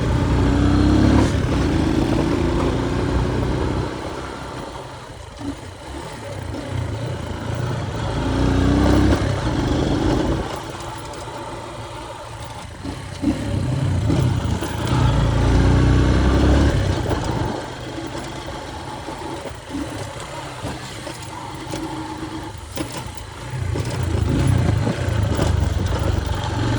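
Small motorcycle engine being ridden, pulling up in pitch as it accelerates, then easing off, in about four waves.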